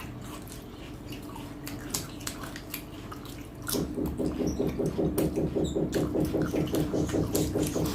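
Close-up eating sounds: scattered wet mouth clicks and chewing, then from about four seconds in a louder, quick rhythmic pulsing, about six a second.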